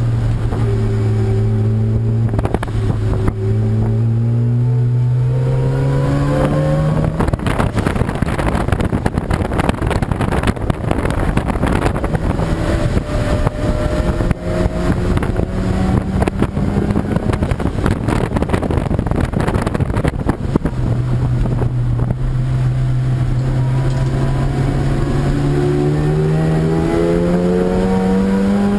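Race car engine accelerating hard, its pitch climbing steadily for several seconds at the start and again from about 21 seconds in, over a loud rushing noise.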